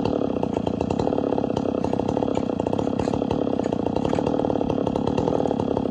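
Two-stroke gas chainsaw running steadily at a constant speed, cutting firewood.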